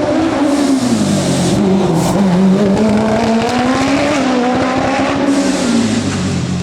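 Competition car's engine at high revs on a hillclimb run, its pitch dropping and climbing again several times as the driver lifts off and gets back on the throttle.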